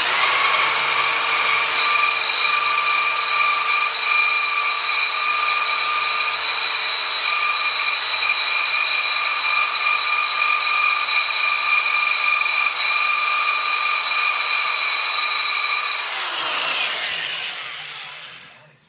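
Electric power tool motor starting up and running at steady speed with a steady whine, then switched off about sixteen seconds in and winding down with a falling whine.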